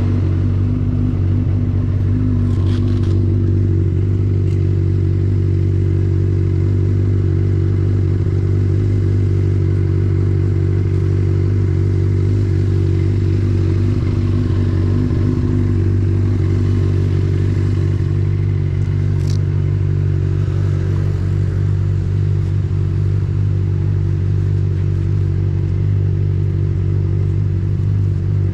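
Benelli TNT600i inline-four motorcycle engine idling steadily just after being started, with an even, unchanging pitch.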